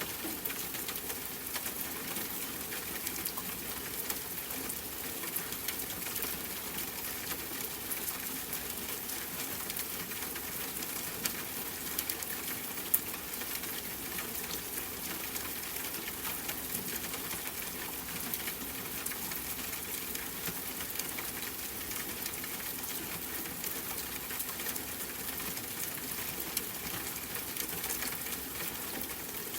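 Steady rain pattering: an even hiss of falling drops with many small, dense ticks and an occasional sharper drip.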